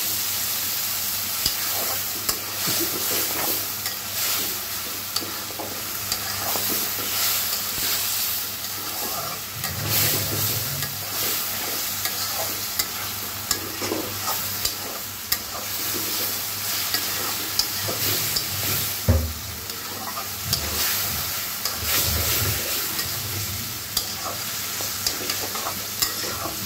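Chicken feet, wings and giblets sizzling in hot oil and spice paste in a karahi as they are fried. A steel spatula stirs and scrapes them, clicking and knocking against the pan again and again over the steady sizzle.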